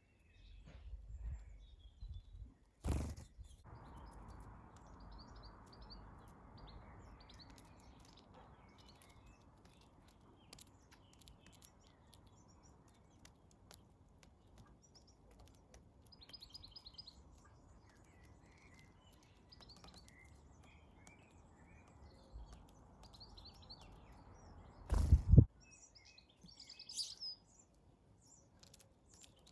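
Small garden birds chirping, with scattered short calls and a brief trill in the middle, over a steady rushing background noise. Two loud sudden thumps break in, about three seconds in and again near the end.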